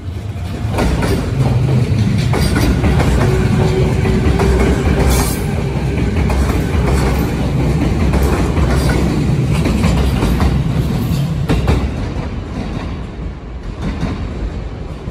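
Electric limited-express train running along the platform track, its wheels clattering rapidly over rail joints and points, with a steady whine for a few seconds partway through. The noise eases off over the last few seconds as the train draws away.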